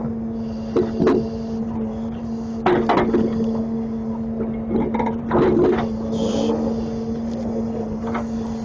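Grapple truck's engine running at a steady speed, with several knocks and clunks from the grapple handling the load, and a short hiss about six seconds in.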